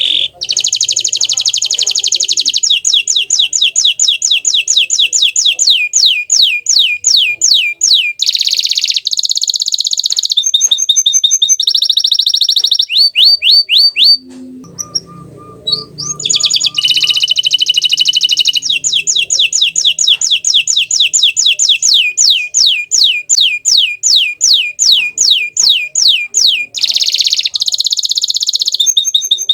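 Green domestic canary singing a loud song of fast trills, each made of rapidly repeated falling notes, mixed with short rolled phrases. The song pauses for about two seconds midway, then starts again.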